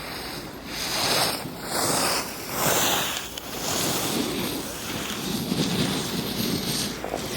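Wind rushing over the microphone while sliding down a ski slope, with snow hissing under the edges. The hiss rises and falls in several swells in the first few seconds, then settles into a steadier rush.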